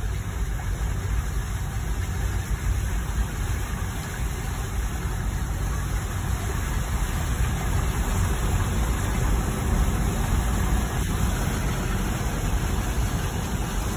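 A car driving, giving a steady low rumble with a constant hiss over it.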